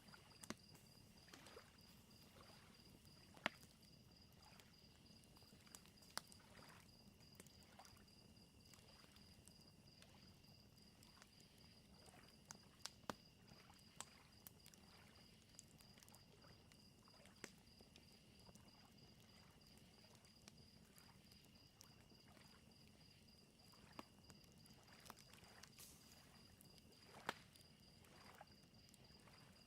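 Faint fire crackling, with sharp pops every second or two, over a steady high pulsing chirp of crickets and the soft lapping of lake waves.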